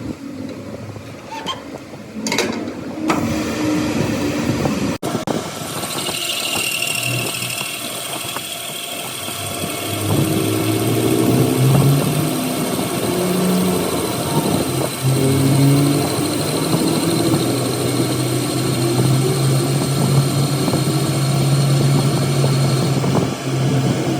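An engine running steadily, getting louder about ten seconds in, after a few metallic clinks at the start.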